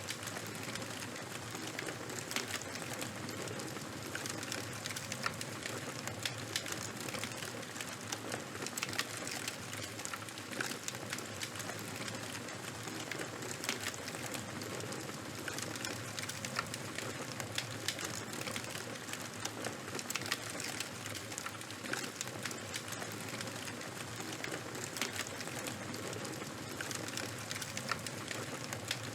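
Charcoal and wood fire burning: a steady hiss with a dense scatter of sharp crackles and pops.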